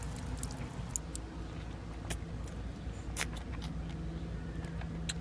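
Faint steady low rumble of a car engine, joined by a steady hum about four seconds in, under scattered small wet clicks of a plastic pickle pouch being handled and a pickle being bitten.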